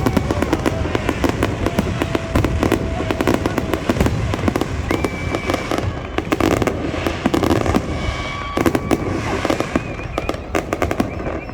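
Fireworks display going off in a dense, continuous run of rapid crackling and popping bursts, with a few short held tones standing out above the crackle.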